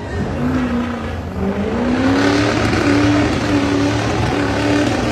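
Ford 6.0 L Power Stroke V8 turbodiesel revving hard under load, its pitch climbing over the first two seconds and then held high.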